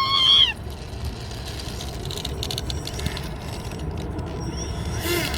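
Wind buffeting the microphone, a steady low rumble. It opens with the end of a high-pitched shout.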